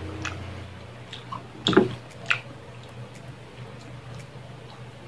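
Close-up mouth sounds of a person eating grilled pork skewers: wet chewing and lip smacks with scattered small clicks, and a louder wet smack just before two seconds in, followed by a sharp click. A steady low hum sits underneath.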